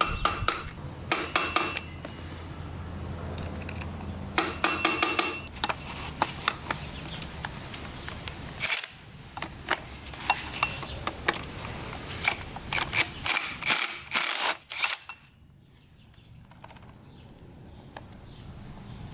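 Hammer and punch tapping a steel tab lock washer on a dirt bike's clutch nut, with metal tools clinking; the strikes come in several quick clusters, some ringing briefly, and the last few seconds are quieter.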